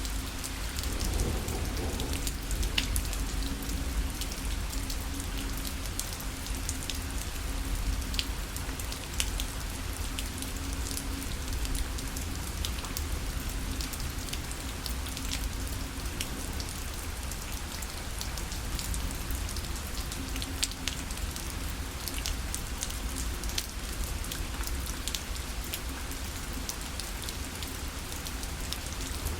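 Steady rain falling on a parasol: a dense patter of drops hitting the fabric, over a low rumble.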